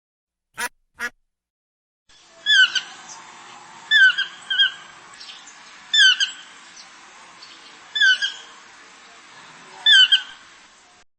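Two short quacks, then after a brief pause a bird squawking over and over, each call a short falling note, sometimes two or three in quick succession, about every two seconds.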